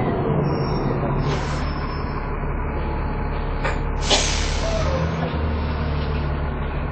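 Dennis Trident 2 double-decker bus's diesel engine running steadily at low revs, with a sharp hiss of compressed air from the bus's air system about four seconds in.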